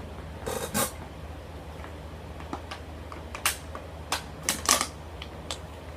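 Scattered sharp clicks and taps, a pair about half a second in and a cluster in the second half, over a low steady hum.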